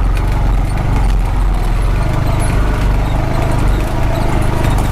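Honda Pioneer 520 side-by-side's single-cylinder engine running steadily while driving over rough ground, with uneven knocking and rattling from the vehicle over bumps.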